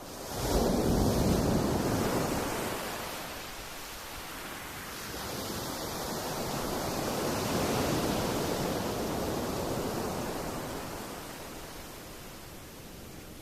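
Waves washing onto a pebble shore. One surge comes in right at the start, then a second, slower swell builds to a peak around eight seconds in and eases away.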